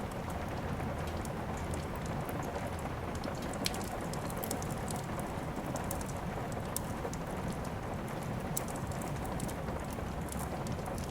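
Steady rain, with scattered sharp crackles and pops from a wood fire in a fireplace. The sharpest crack comes between three and four seconds in.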